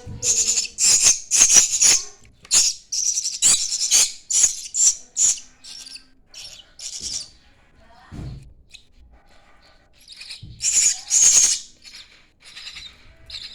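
Starling chicks begging with harsh, raspy, hissing calls in quick repeated bursts. The calls thin out around the middle and come back strongly near the end.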